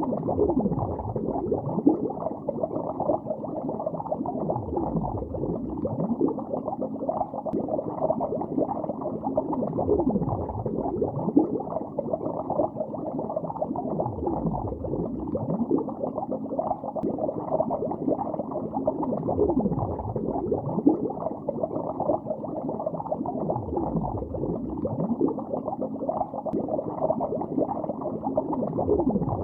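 Muffled underwater bubbling in a lake, a dense steady bubbling with a deeper swell about every five seconds.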